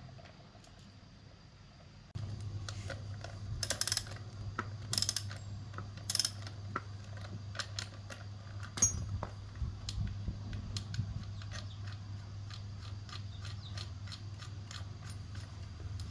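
Metal clicks, clinks and ratchet-like taps from hand work on air compressor parts, scattered irregularly. Under them a steady low hum starts suddenly about two seconds in.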